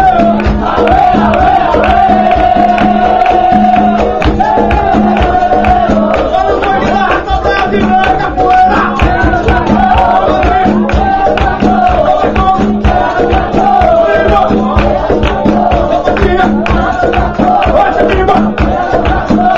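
Capoeira roda music: voices singing over berimbau and hand percussion, with a steady pulse and many sharp clicks and jingles.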